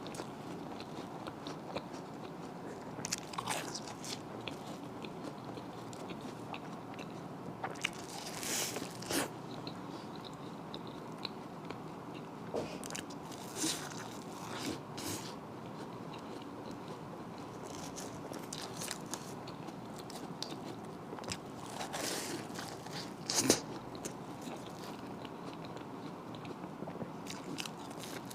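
Close-miked eating of deep-fried cream puffs: steady chewing with bunches of crisp crunching bites every few seconds, the loudest about two-thirds of the way through.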